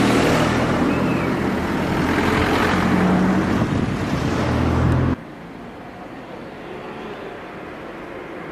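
A motor vehicle engine running close by with a steady low drone. It cuts off abruptly about five seconds in, leaving quieter outdoor street noise.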